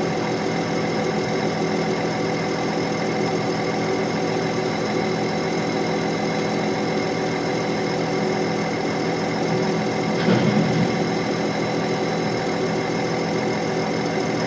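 Heavy diesel engine of the excavator or tipper truck running steadily at constant speed, with one brief louder knock or burst about ten seconds in.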